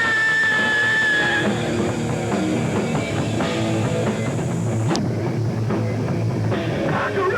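Hardcore punk band playing live: distorted electric guitars and a pounding drum kit, dense and loud, with a high held note over the first second and a half, heard on a home-video camcorder recording.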